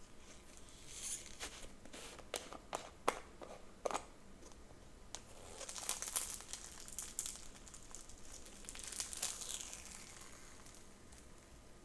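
Plastic packaging crinkling and rustling as it is handled, with a few sharp clicks in the first few seconds.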